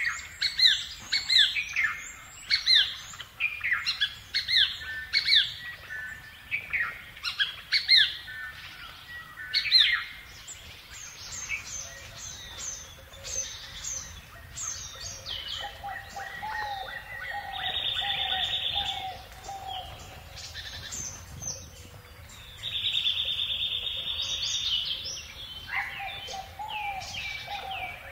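Several birds singing and calling. Quick, sharply falling whistled notes come in the first ten seconds, then chirping, with two long buzzy trills in the second half and lower warbling notes running underneath from the middle on.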